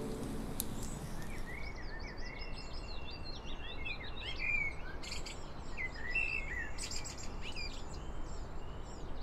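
Several birds chirping and singing in short rising and falling calls over a steady low background noise, as the tail of a music track dies away at the start.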